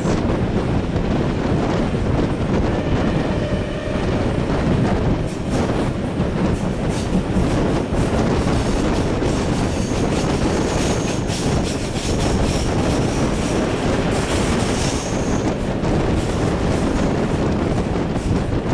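Train running on the rails, with steady rumble and wheels clattering over the track, and a thin high wheel squeal in the middle.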